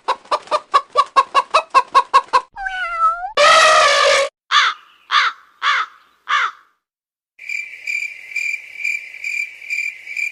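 A run of short novelty sound effects, one after another. First come rapid, evenly spaced clucking pulses. Then a brief wavering slide, a loud held note and five quick falling chirps, and after a short gap a steady tone that pulses about three times a second.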